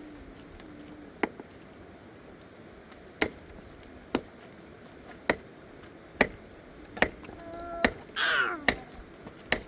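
A series of sharp chopping strikes, nine in all, coming about once a second after the first. Near the end a short cry falls in pitch.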